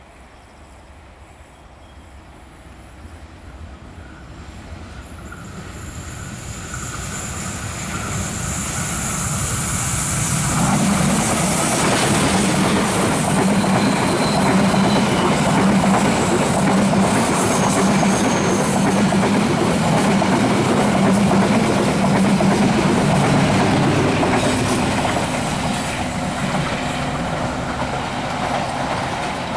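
A train approaching and passing close by: the sound grows steadily louder over about ten seconds, then holds as a loud, dense clatter of wheels running over the rails, easing off slightly near the end.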